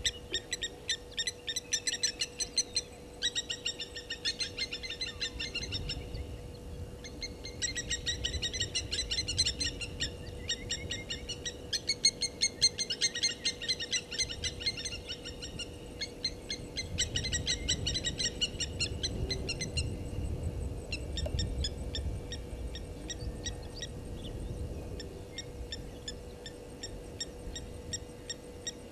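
Bird calls: fast runs of high chirping notes, several a second, in bouts of a few seconds broken by short pauses.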